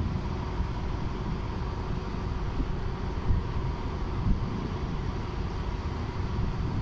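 Steady low rumble of a train, with a faint steady hum over it and two short knocks, about three and four seconds in.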